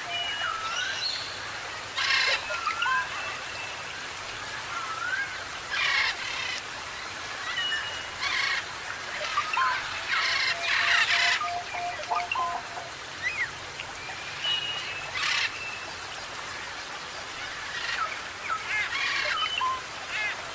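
Tropical forest birds calling: harsh, raspy calls every couple of seconds, mixed with short whistled notes that glide up and down. A steady single-pitch tone is held for a few seconds in the middle.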